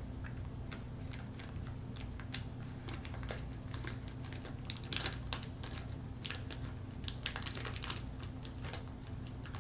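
Chewing a soft cookie up close: irregular wet mouth clicks and smacks, busiest in the middle of the stretch, over a steady low hum.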